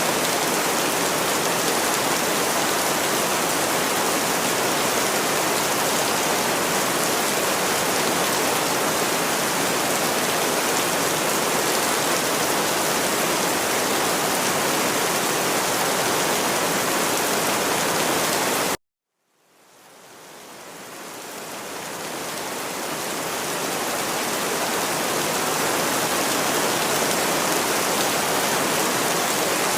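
Recorded steady rain, an even hiss across all pitches. About two-thirds of the way through it cuts out suddenly to silence for about half a second, then fades back in over several seconds, the sign of a loop or edit point in the track.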